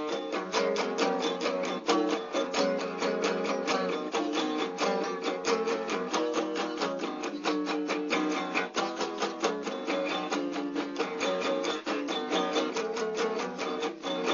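Guitar music played in a quick, even rhythm, with no singing.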